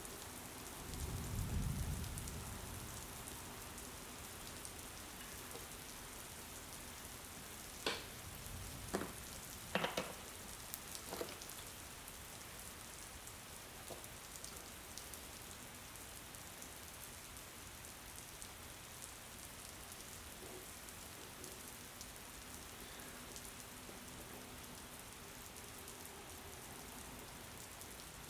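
Steady rain hiss, with a short low rumble about a second in and a few sharp taps or knocks in the middle.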